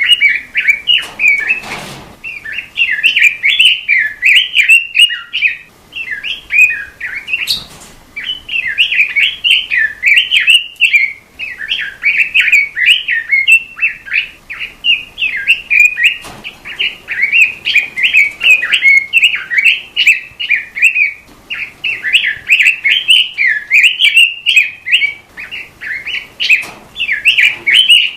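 A robin, as the bird is called in Indonesian bird-keeping, singing a fast, near-continuous warbling chatter of high chirps, with a few short breaks.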